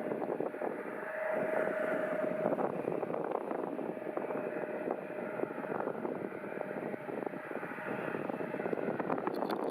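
Turbofan engines of a Fuji Dream Airlines Embraer E-Jet running, with a steady whine that fades over the first few seconds, under strong gusty wind buffeting the microphone.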